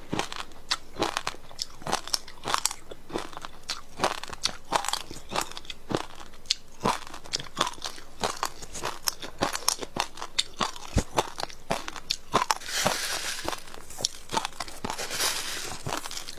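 Frozen passion fruit ice being bitten and chewed close to the microphone: a quick run of sharp crunches, several a second. Late on, a stretch of dense crackling grinding as the ice is crushed between the teeth.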